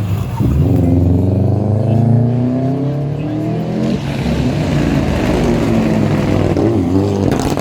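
Rally car engine accelerating hard, its pitch climbing steadily for about four seconds, then a gear change and rougher, noisier running as the car continues.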